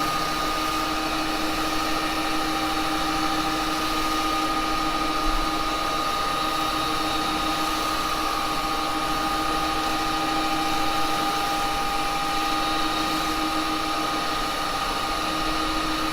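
Axminster 1628 wood lathe running at a steady speed, its motor giving a constant whine, while a wax-laden rag is held against the spinning cherry workpiece to buff the wax.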